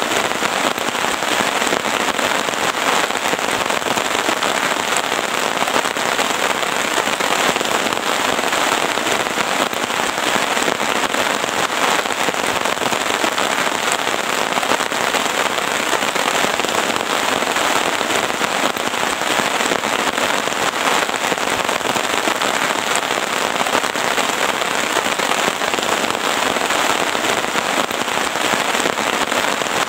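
Heavy rain pattering steadily on a tent, a dense, even crackle of drops.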